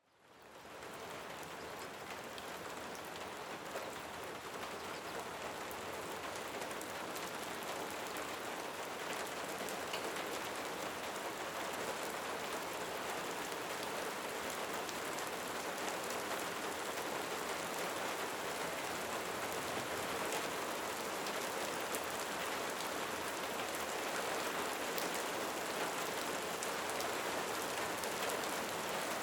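Steady rain falling in a cenote, fading in from silence at the start and then holding even, with scattered individual drops heard through the wash.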